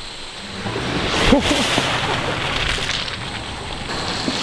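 A vehicle's tyres crunching and crackling over rough dirt, gravel and brush as it creeps down a steep slope. The noise swells about a second in, with a sharper crack or scrape soon after.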